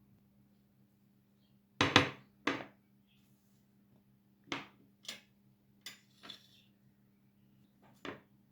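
Dishes and utensils clattering: about seven separate clinks and knocks of kitchenware, the loudest two close together about two seconds in.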